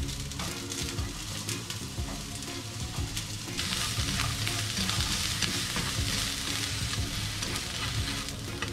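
Sliced onion sizzling in a hot frying pan as it is stir-fried with wooden chopsticks, with small taps and scrapes of the chopsticks against the pan. The sizzle grows louder about three and a half seconds in.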